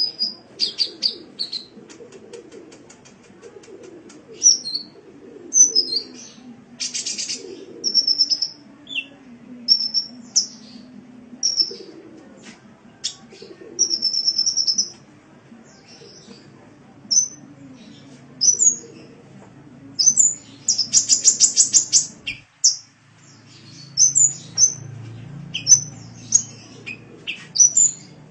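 Sunbird ('kolibri') song: a busy run of high chirps, short whistled notes and rapid buzzy trills, the fastest trill near 20–22 s, over a faint low background hum.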